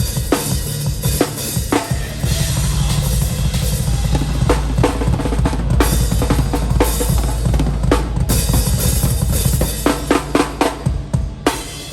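Drum kit played hard in a live hardcore/metalcore set, heard close from behind the kit: a dense, rapid kick-drum pattern under snare and cymbals. Near the end it breaks into a run of separate heavy hits that cut off abruptly.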